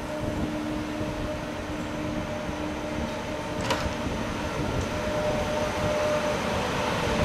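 ICE 2 high-speed train (class 402 power car with class 806 coaches) pulling slowly out of the station: a steady electric hum and whine from its traction equipment and blowers, with the rolling noise slowly growing louder as the coaches pass. One short sharp clack about three and a half seconds in.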